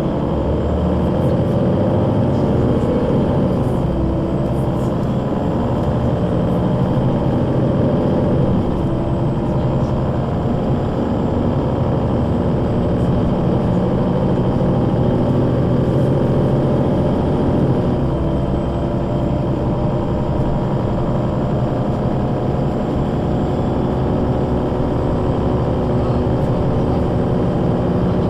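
Solaris Urbino 12 III city bus's engine and Voith automatic gearbox under way, the engine note rising in pitch over the first few seconds and shifting again about 8 and 18 seconds in as the bus drives.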